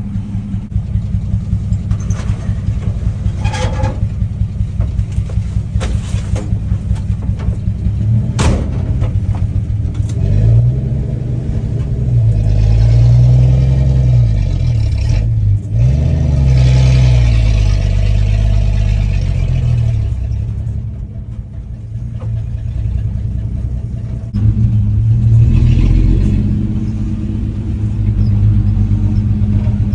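1967 Dodge D100 pickup's 225 slant-six engine running low and even, with a couple of knocks, then pulling away and revving up and dropping back several times as it works through the gears.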